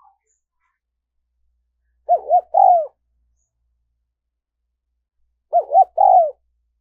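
Spotted dove cooing: two short phrases about three and a half seconds apart, each a few quick arching coos, with dead silence between.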